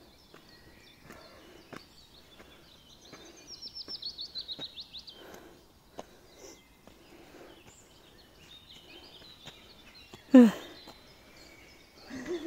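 A forest bird sings a rapid trill of high notes about three to five seconds in, with other faint bird chirps scattered around it and soft footsteps on a dirt trail. About ten seconds in comes a short, loud vocal exclamation that falls in pitch, from one of the hikers.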